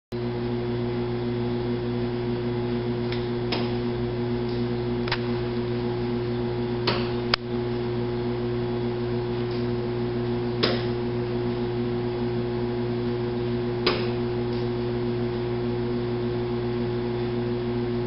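A bird striking a window pane, about seven sharp taps on the glass at irregular intervals over a steady electrical hum.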